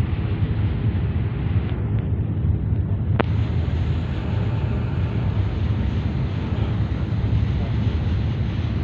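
Steady low rumble of a boat underway, with wind on the microphone. A single sharp click about three seconds in.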